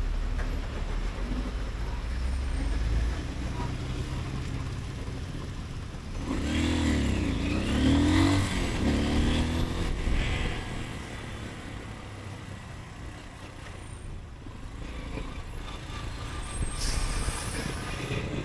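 City street traffic heard from a moving motorcycle: a steady low engine rumble, with a louder heavy vehicle going by about six to ten seconds in, its engine pitch bending up and down as it passes.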